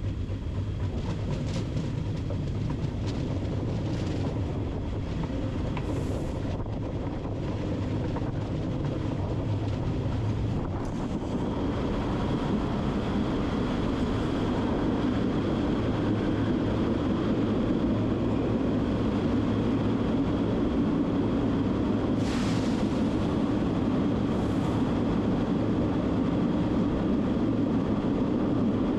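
Train running with a steady rumble, growing somewhat louder about twelve seconds in, with a few faint clicks.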